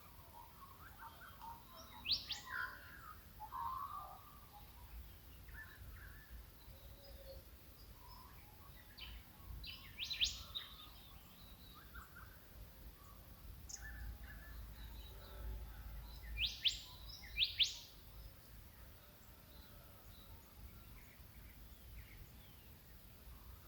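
Wild birds calling in the Australian bush in the early morning: scattered short chirps and calls, with sharp high sweeping calls standing out about 2 s in, around 10 s, and twice near 17 s, over a faint low rumble.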